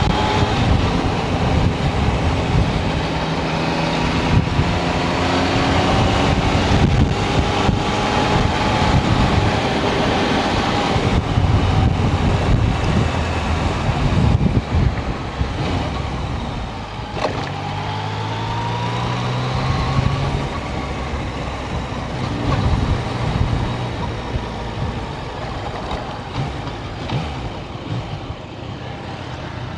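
Yamaha Tracer 900 GT's three-cylinder engine running on the road, its pitch rising and falling several times as the motorcycle speeds up and shifts, over steady wind and road rush.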